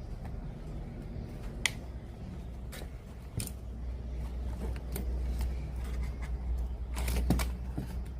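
Scattered sharp clicks and light clatter of small tools and parts being handled, several close together near the end, over a steady low hum.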